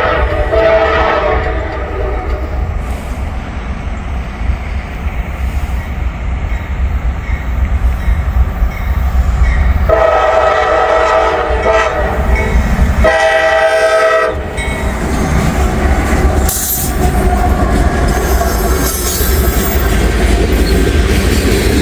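Diesel freight train arriving at a grade crossing, its locomotive horn blowing: a blast ending just after the start, then a long blast about ten seconds in and another about thirteen seconds in. Under the horn is a heavy, steady low rumble, and in the second half the rail cars clatter past.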